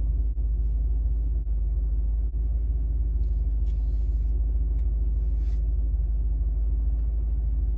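BMW's engine idling, a steady low rumble heard inside the cabin.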